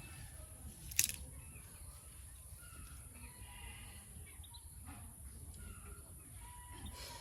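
Faint calls of birds around a trap, short scattered notes, with one sharp click about a second in, over a steady high hiss.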